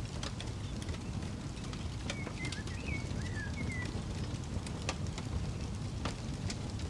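Wood campfire crackling, with sharp scattered pops over a steady low rumble. A bird gives a few short chirps about two seconds in.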